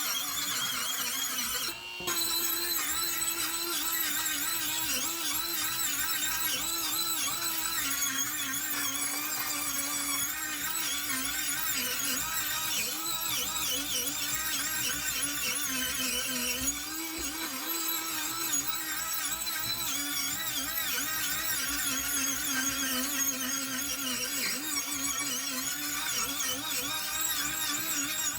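A small power tool running steadily against metal with a squeal, its pitch wavering as the load changes; it stops briefly just under two seconds in.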